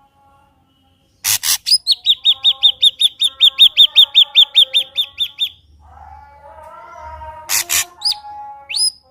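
Ashy drongo singing: a harsh rasping call, then a fast, even run of about twenty sharp high notes, about five a second, followed by softer warbling, another harsh rasp and two quick rising whistles near the end.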